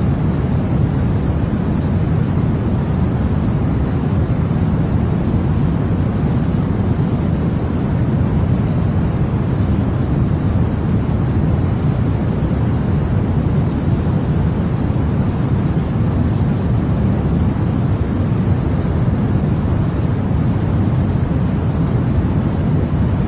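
Continuous white noise used as a sleep aid: an even, unchanging rush with no breaks or changes, weighted toward the low end so it sounds deep rather than hissy.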